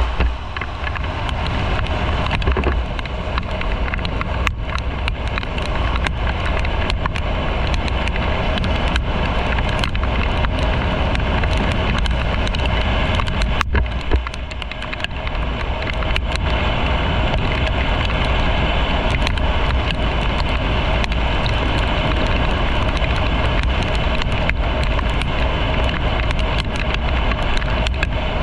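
Motorcycle on the move: steady engine rumble under heavy wind rush, with frequent short crackles and clicks and a brief drop in loudness about halfway through.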